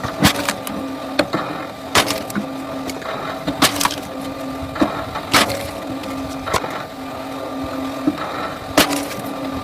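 Firewood cracking and splintering as it is split, with sharp cracks every second or two over a steady machine hum.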